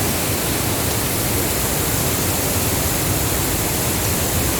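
Steady rush of fast-flowing floodwater, an even, unbroken noise.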